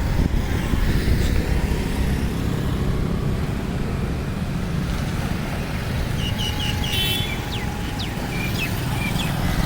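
Riding noise from a Bajaj Super two-stroke scooter on the move: a steady low rumble of the engine and wind on the microphone. A few short high chirps come near the end.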